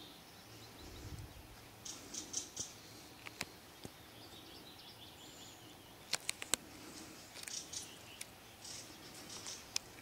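Small birds chirping and twittering in short high bursts, with several sharp clicks in between, including a quick run of four about six seconds in.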